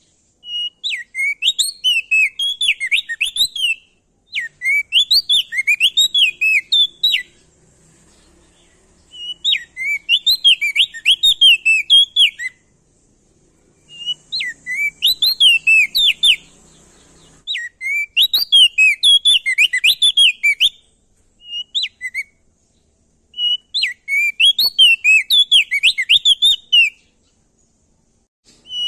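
Opior jambul (crested dark-eye), the songbird called prenjak daun in Nusa Tenggara, singing loud, rapid phrases of sharp up-and-down whistled notes. The phrases come in repeated bouts a few seconds long, with short pauses between them.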